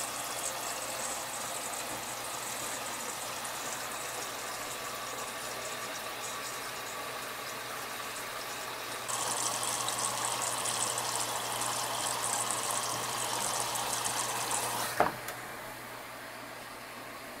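Kenmore HE-3 front-load washing machine running with water rushing through it over a steady low hum. The water rush gets louder and hissier about nine seconds in. A clunk comes about fifteen seconds in, after which the sound quietens.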